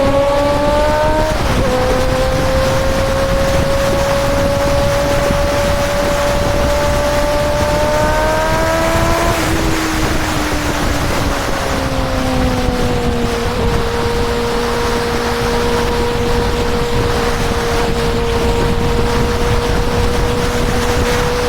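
Honda CB650R's inline-four engine running at road speed over a rush of wind noise. Its pitch climbs and drops with a gear change about a second in, climbs slowly for several seconds, falls as the throttle eases off around nine seconds in, then holds steady at cruise.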